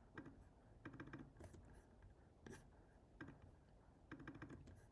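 Faint, scattered clicks of a computer mouse and keyboard, a few at a time at irregular intervals, over near-silent room tone.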